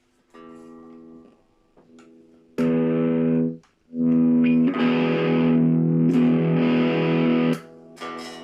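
Les Paul Custom electric guitar played through an amplifier as the freshly rewired guitar is tested. A soft chord rings first, then loud strummed chords come in two stretches; the sound cuts off abruptly between them and drops away near the end.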